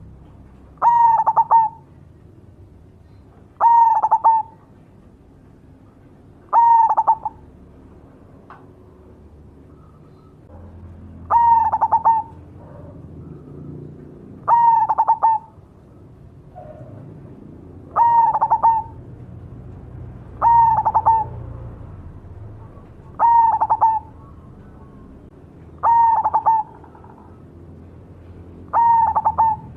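Zebra dove (perkutut) of the black cemani variety singing its cooing song: ten short coos, each under a second long, repeated every three seconds or so.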